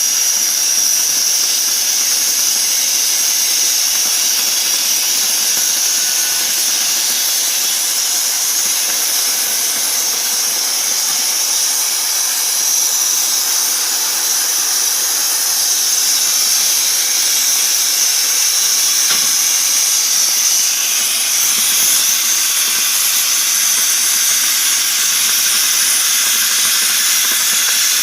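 CNC cutting torch hissing steadily as it cuts through mild steel plate.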